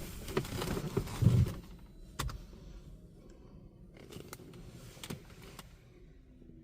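Scattered clicks and a low thump inside a car's cabin, typical of handling noises. A low rumble fades out over the first second and a half, and a few sharp clicks follow over a quiet cabin.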